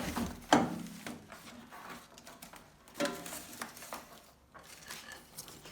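Handling noises from an object being moved about, with a sharp knock about half a second in and a lighter one about three seconds in.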